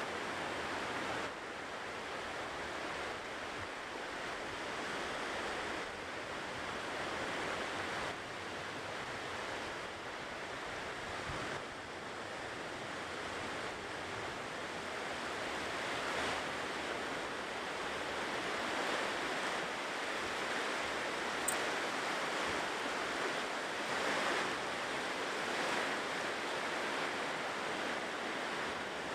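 Ocean surf washing onto a shore, a continuous wash that swells and eases every few seconds, with one brief tick about two-thirds of the way through.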